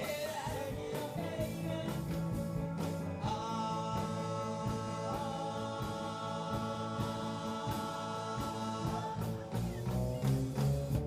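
Live band playing a song with singing; a long note is held through the middle before the band breaks off briefly near the end.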